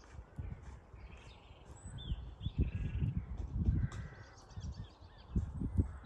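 Wild birds chirping and calling over gusts of wind buffeting the microphone, the gusts strongest around the middle and near the end.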